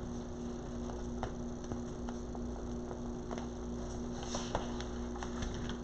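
A steady low electrical hum, with a few faint scattered clicks over it.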